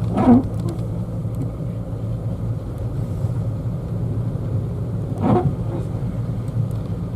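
Small car's engine and road noise heard from inside the cabin as a steady low drone while it climbs slowly up a snow-covered road. The car is most likely a Citroën Saxo.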